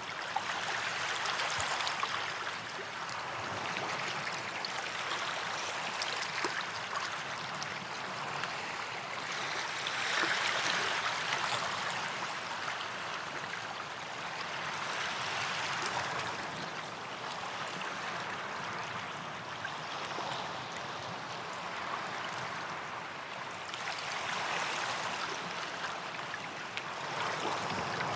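Small waves washing onto a sandy beach: a steady wash of surf that swells and eases every five seconds or so.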